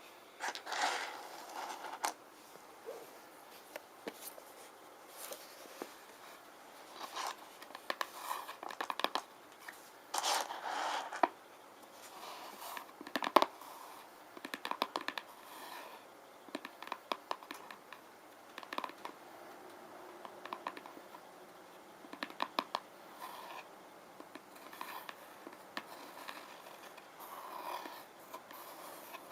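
Fingernails scratching and tapping on rune stones: irregular short scratches, with clusters of small sharp clicks here and there.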